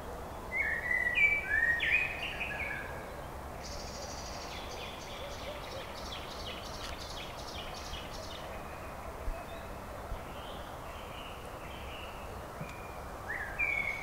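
Songbirds singing: a loud phrase of quick, clear whistled notes about half a second in, then a rapid dry trill from about four to seven seconds in, fainter calls after that, and another loud phrase near the end, all over a steady hiss of background noise.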